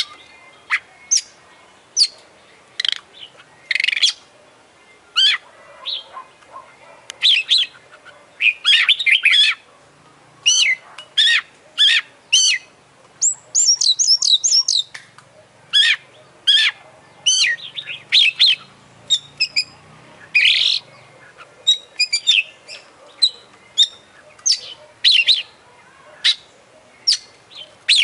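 Oriental magpie-robin (kacer) singing a varied song of short whistles, chirps and quick trills, packed with phrases copied from other birds.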